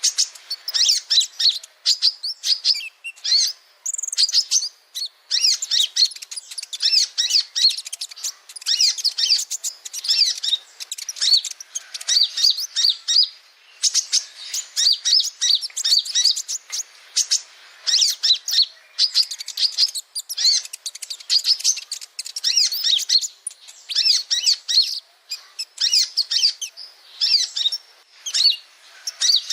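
Male 'kolibri ninja' sunbird singing: rapid, high-pitched twittering phrases, one after another with short pauses between them.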